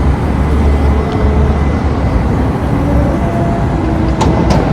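Steady low rumble of street traffic and wind heard from a moving bicycle, with two sharp clicks near the end.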